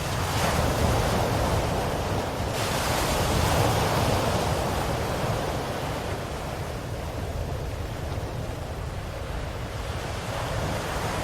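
Ocean waves washing on a shore: a steady low rumble of surf with hissing swells as waves break, one surge about half a second in, a bigger one from about two and a half seconds in, and another near the end.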